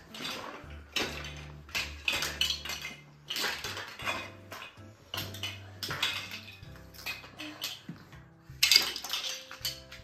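Small hard toy pieces clattering and rattling as they are gathered up and dropped into a box, in repeated quick bursts.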